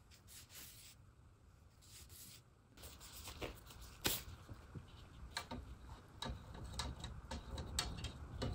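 Faint rubbing and handling sounds, with scattered light clicks and taps and one sharper tap about four seconds in.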